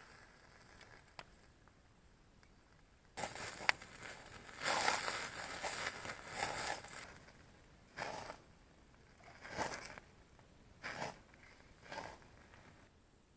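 Rustling and handling noises: a busy stretch of rustling about three seconds in, then four short rustles spaced about a second and a half apart.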